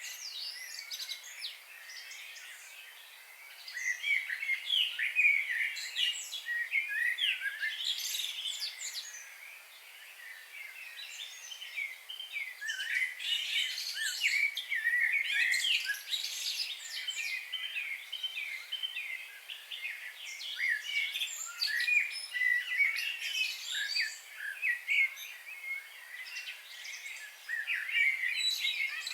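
A chorus of many small birds chirping and singing together, with dense overlapping quick calls and trills, busier in several swells.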